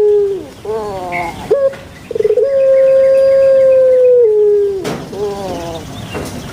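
Puter pelung dove, a long-calling Barbary dove (Streptopelia risoria), giving its drawn-out coo. The end of one long held note is followed by a few short gliding notes. Near two seconds in, a stuttering start runs into one long held coo of about two seconds that drops in pitch at its end, followed by a few shorter falling notes.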